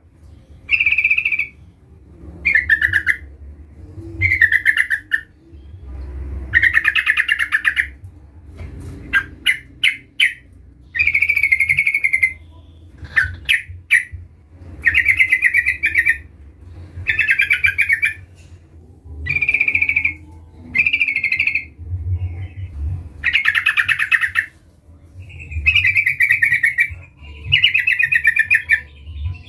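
Yellow-vented bulbul singing: short chirpy phrases about a second long, repeated every second or two, with a few quick sharp notes in between.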